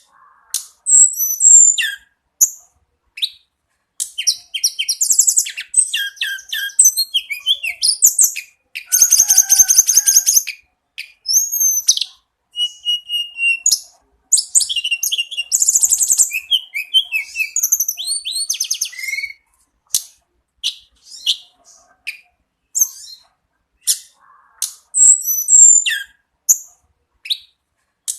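A tledekan gunung bird singing continuously: high-pitched chirps, rapid buzzy trills and short whistled glides, delivered in dense phrases with brief pauses between them.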